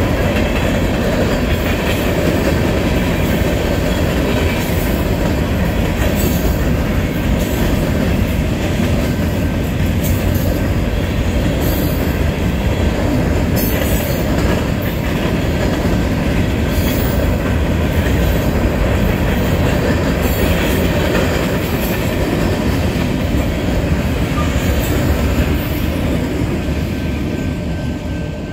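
Freight train of covered hopper cars rolling past close by: a steady rumble of steel wheels on rail with regular clacks every second or two. It eases off near the end as the last car goes by.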